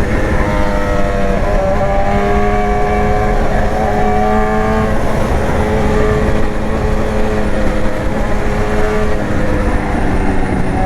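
BMW S1000R's inline-four engine running under the rider at a fairly steady speed, its note shifting a little in pitch several times, over wind and road rush.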